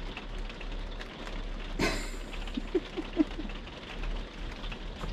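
Rain pattering steadily on the camper's roof, with a single knock about two seconds in and a few short squeaks about a second later.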